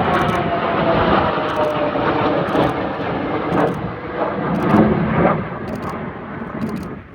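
Military jet aircraft flying past overhead: a loud rushing jet noise with an engine whine falling in pitch in the first second, swelling around the middle and dropping away sharply near the end.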